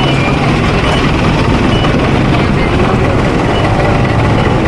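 Steady, loud street traffic noise: running vehicle engines and a continuous low rumble.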